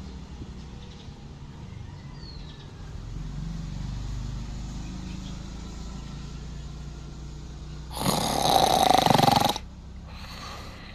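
A sleeping aspin dog snoring with a low, steady rumble, then a loud rasping burst about eight seconds in that lasts a second and a half, followed by a shorter, weaker one.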